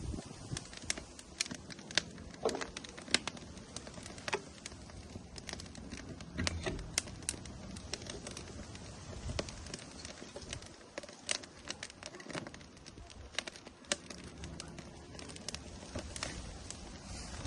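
Firewood burning in an outdoor grill, crackling: irregular sharp pops and snaps, several a second, over a soft steady hiss.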